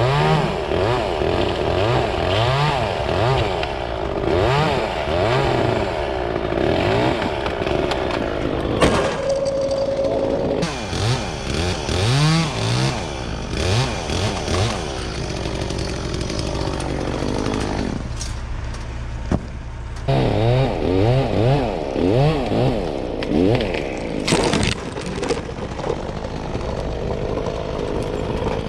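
Gas chainsaw cutting dead elm wood, revving up and falling back again and again, with a short lull in the middle.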